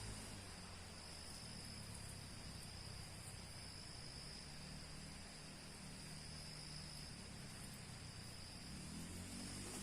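Forest insects, crickets or similar, keeping up a steady high-pitched chirring chorus, with a faint low hum beneath.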